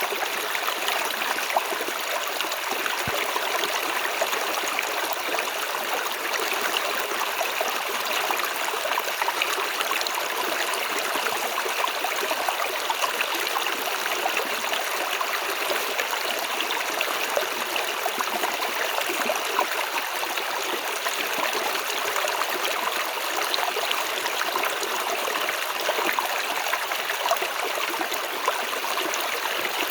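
Running water of a stream: a steady splashing and trickling rush.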